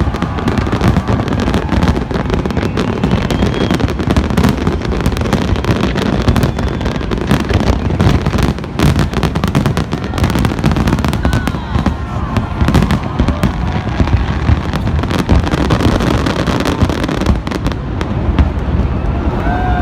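Fireworks display: a dense, continuous barrage of shells bursting in rapid succession, bangs and crackle overlapping with no let-up.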